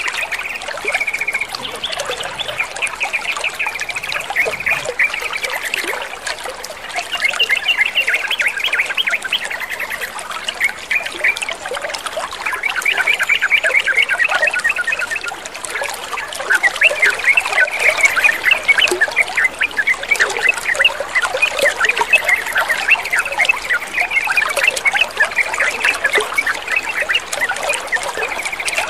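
Trickling water with yellow-vented bulbuls chattering over it in quick, high runs of notes, in phrases of a few seconds with short breaks between them.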